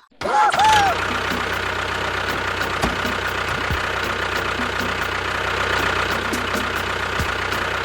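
A small motor running steadily with an even, unchanging hum, starting just after the start and carrying on without a break.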